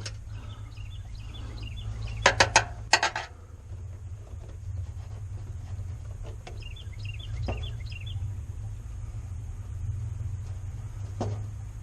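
Metal clinks and clicks of a screwdriver working a hose clamp, with a quick run of sharp clicks two to three seconds in and scattered single clicks later. Birds chirp in the background over a steady low hum.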